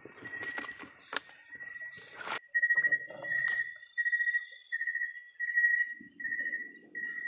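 Night insects calling: a cricket-like chirp repeating about twice a second over a steady high-pitched trill. In the first two seconds there are handling knocks and a sharp click, and near the end a soft rustle.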